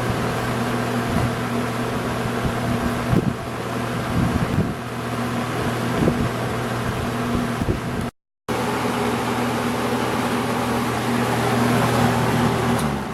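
Edison Thin-N-Lite 20-inch box fan running steadily: the whoosh of moving air over a steady motor hum. The sound cuts out for a moment about eight seconds in, and near the end the hum drops and the sound begins to fall away as the fan slows.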